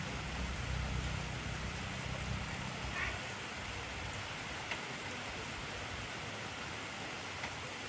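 Heavy rain falling steadily, an even hiss with a few separate drop ticks. A low rumble underneath fades out about a third of the way in.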